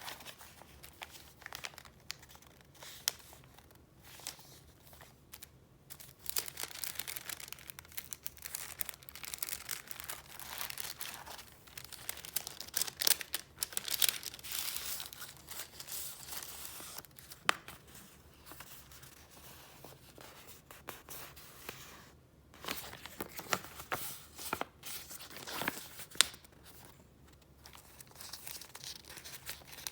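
Paper sheets and retro stationery being handled and flipped through, with irregular rustling and sharp crinkles. The handling is busiest for several seconds in the middle and again briefly near the end.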